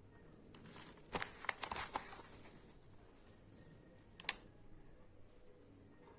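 A quick run of small clicks and rustling about a second in, then a single sharp click about four seconds in.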